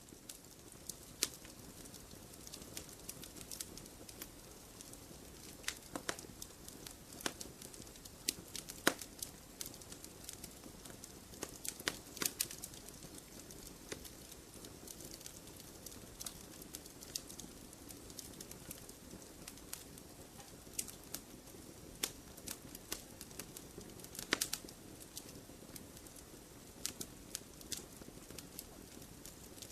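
Wood fire crackling in a fireplace: irregular sharp pops and snaps over a low, steady hiss.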